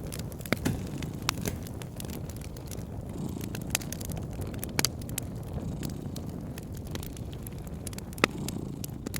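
Wood fire crackling: a steady low rumble broken by sharp, irregular pops, about six in all, the loudest one near the end.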